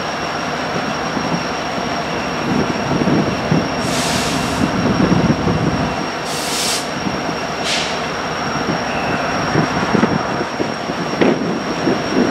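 A slow-moving heavy freight train led by an EMD SD70M-2 diesel locomotive, whose 16-cylinder EMD 710 engine is running with a steady low rumble over a thin steady high whine. Three short hisses come about four, six and a half and nearly eight seconds in.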